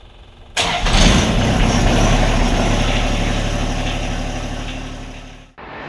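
Compact tractor's diesel engine running, starting abruptly about half a second in and fading slowly until it cuts off near the end.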